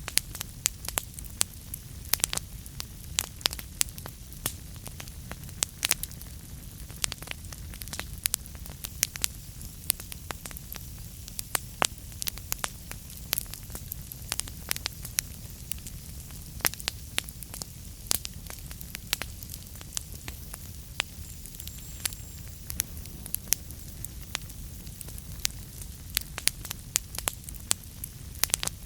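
Wood fire in a fireplace burning steadily: a low rumble of flames with frequent sharp, irregular crackles and pops.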